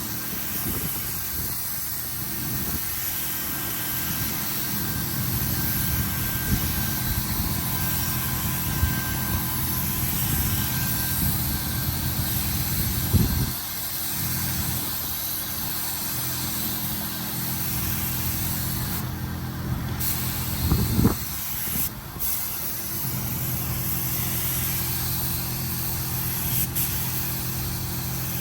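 Compressed-air paint spray gun hissing as a car panel is painted, over a steady low machine hum.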